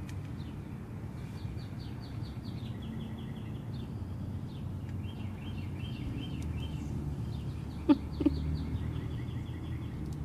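Birds singing in the background, repeated runs of short high notes, over a steady low outdoor rumble. About eight seconds in, two short sharp sounds come a fraction of a second apart, the loudest thing here.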